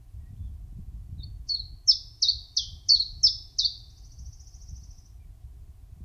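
A small songbird singing one phrase: six loud notes, each sliding down in pitch, about three a second, then a quicker, fainter trill. A faint low rumble runs underneath.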